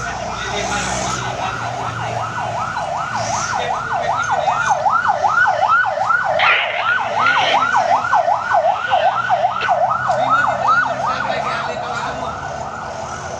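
Emergency vehicle siren on a fast yelp, its pitch sweeping up and down about three times a second. It grows louder toward the middle and eases off a little near the end.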